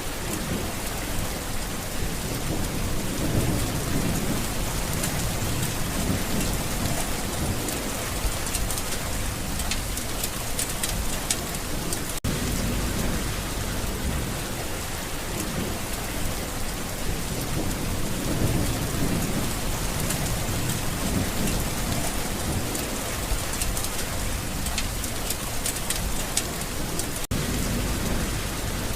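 Steady rain falling, with low rumbles of thunder swelling up every several seconds.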